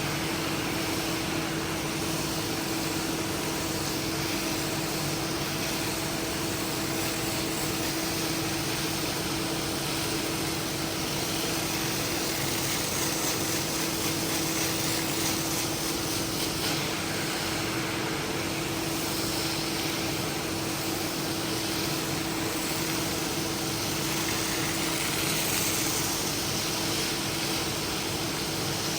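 Carpet-cleaning machine running steadily: a constant motor hum under an even hiss of air or water spray.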